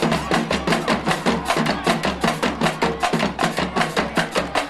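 Marching band drumline playing a cadence: crisp drum strokes about four a second over a repeating bass drum pattern.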